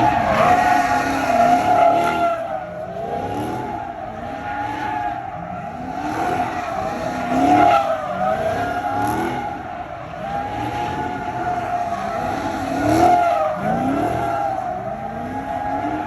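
A car doing doughnuts: its tyres squeal without a break while the engine revs up again and again, about every second and a half.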